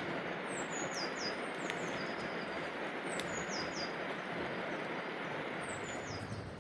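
Steady rushing roar of a waterfall heard from a distance, with a small bird singing a short phrase of high, falling notes three times over it.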